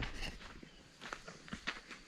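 Footsteps of people walking on a dirt trail, irregular crunching steps a few times a second.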